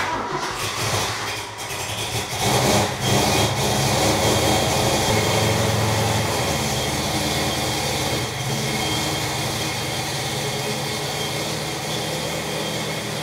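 Ford Mustang's Holley 750-carbureted V8 engine starting up cold, uneven and loudest in the first few seconds, then running steadily as the car pulls away.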